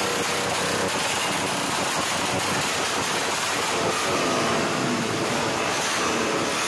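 Motorcycle engine running loud with the bike up on a rear stand, its pitch rising and falling a little around the middle.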